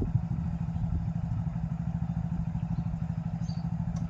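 A small engine idling steadily, a rapid even low pulsing throughout.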